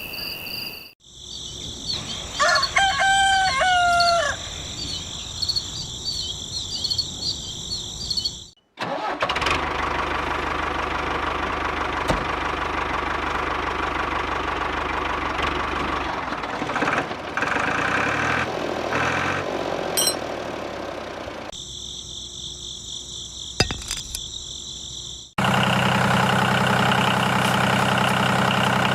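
Several short clips cut together: a rooster crows over a steady high whine, then a long stretch of rough mechanical running noise, and near the end an engine idles steadily.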